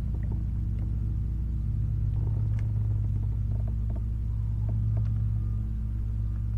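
Steady low mechanical hum of a small motor running at an even pitch, with a few faint light clicks over it.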